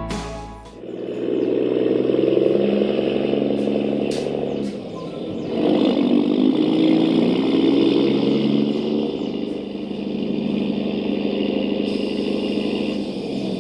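Radio-controlled truck driving, its motor running with a steady buzz that eases off about four and a half seconds in and picks up again a second later.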